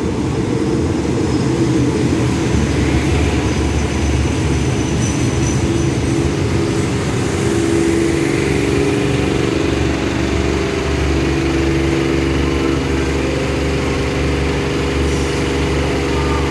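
Diesel-hauled passenger train pulling in alongside the platform and coming to a stop, with a steady engine drone throughout.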